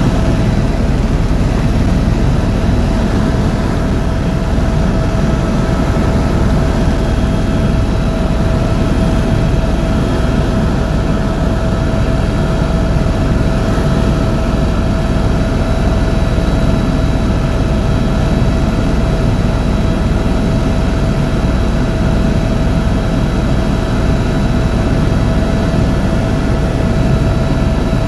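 Tour helicopter in flight: a steady, loud rumble of rotor and turbine engine with a constant whine running through it.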